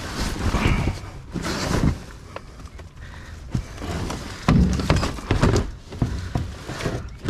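Junk being rummaged through and shifted: a run of irregular knocks, clunks and rustling, with heavier thumps about four and a half seconds in.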